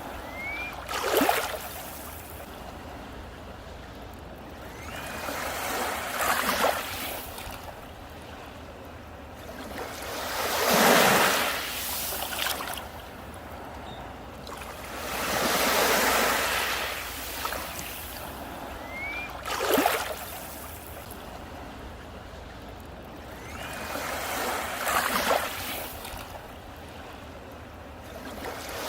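Sea waves breaking on a beach, a surge of surf about every four to five seconds over a steady wash of water. Some waves come in as short sharp crashes, others as longer swelling rushes.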